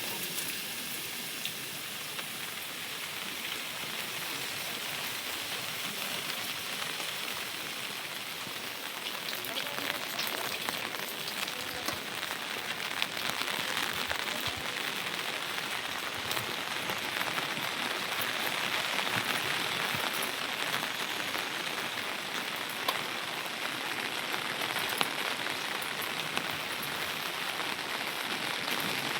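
Steady rain falling, with scattered drops ticking; it grows a little louder about ten seconds in.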